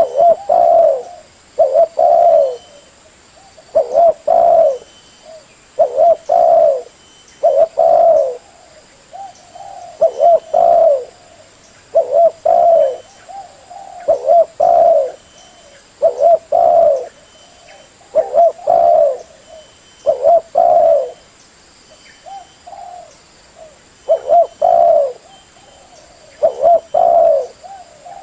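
Spotted dove (tekukur) cooing over and over: short phrases of two or three low coos, repeated about every two seconds.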